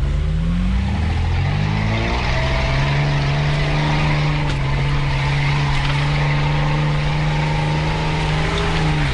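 Off-road 4x4's engine revving up over the first two seconds, then pulling at a steady pitch under load on a muddy forest track, with tyre and body noise, and easing off at the very end.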